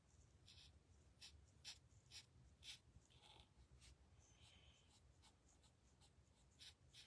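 Faint, short scratchy strokes of a Stampin' Blends alcohol marker colouring on stamped cardstock, roughly two strokes a second at an uneven pace.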